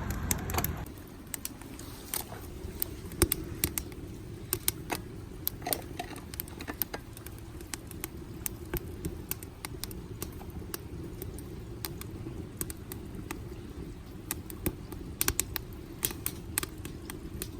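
Wood fire burning in a pail-can stove, crackling with frequent irregular sharp pops over a steady low rush of flame.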